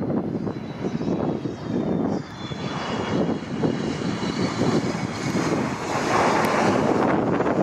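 Jet airliner's engines passing: a steady rush with a faint high whine, growing louder toward the end.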